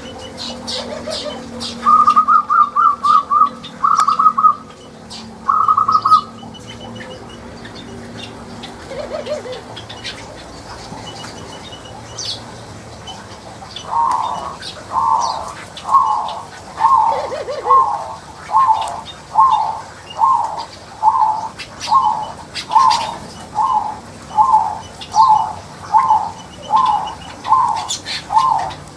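Birds calling in an aviary: three quick trilled phrases in the first few seconds, then from about halfway a steady run of repeated short calls, a little over one a second.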